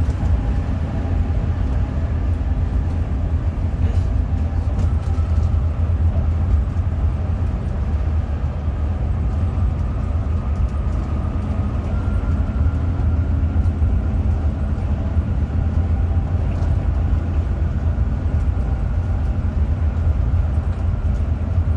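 Hino RM 280-engined coach under way: a steady low engine and road rumble with a faint whine above it.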